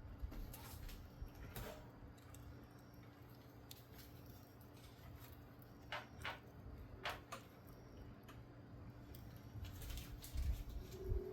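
Firewood fire crackling, with scattered sharp pops and snaps.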